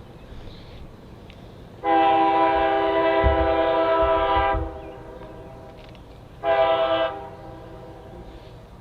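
Locomotive air horn sounding one long blast, then after a short pause a brief one. It is a multi-note chord held steady each time.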